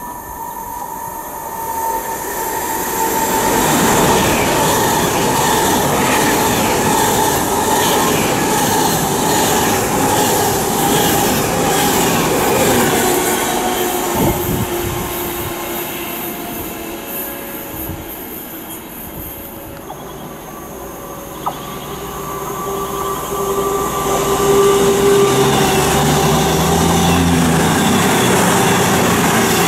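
An Avanti West Coast Class 390 Pendolino electric train passes at speed with a sustained rush of wheel and rail noise. After about 20 s a Transport for Wales diesel multiple unit passes close by, its engine note rising near the end.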